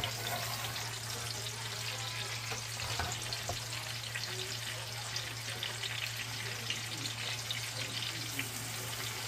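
Chopped garlic greens and minced garlic frying in hot bacon grease in a cast iron skillet: a steady crackling sizzle, with a wooden spatula stirring through them near the end.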